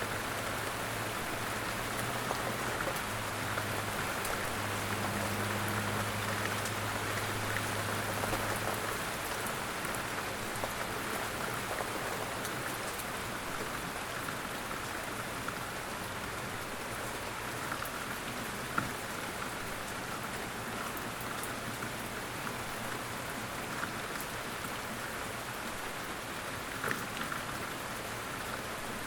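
Steady light rain falling, with scattered single drops ticking through it. A low steady hum sits under the rain for roughly the first nine seconds.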